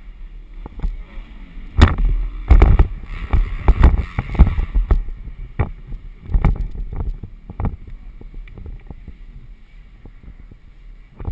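Wind buffeting the microphone in irregular low thumps and rumble, heaviest between about two and five seconds in.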